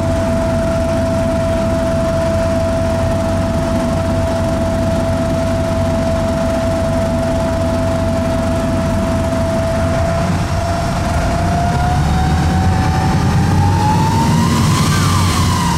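Detroit Diesel Series 50 EGR diesel engine of a NovaBus RTS transit bus, heard from inside the bus, idling with a steady high whine. After about ten seconds the bus pulls away: the whine rises in pitch and the engine grows louder, then the whine eases back slightly near the end. The whine is the odd engine-compartment noise that the title puts down to a bad turbo.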